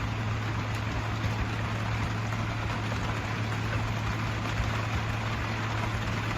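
Heavy rain falling steadily on a small sailboat's deck and cabin top, an even hiss with a steady low hum underneath.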